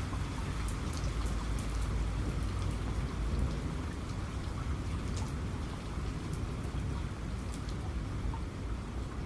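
Steady heavy rain falling, with individual drops ticking sharply over the hiss. A low rumble of distant thunder swells under it over the first few seconds, then eases.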